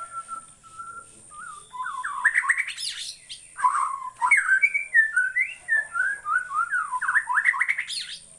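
White-rumped shama (murai batu) singing: a few soft whistled notes, then from about two seconds in a loud, fast run of sweeping, chattering notes that goes on until just before the end.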